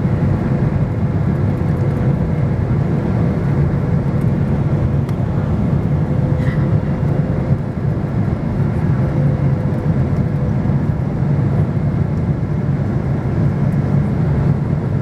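Airliner cabin noise: a steady low rumble of engines and airflow, with a faint steady whine above it.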